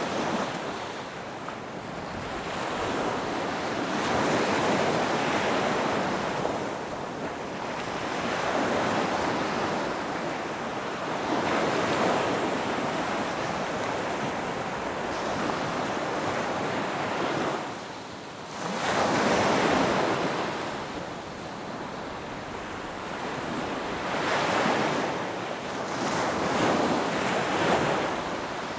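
Ocean surf breaking on a beach: waves swell, crash and wash back in turn, one every few seconds.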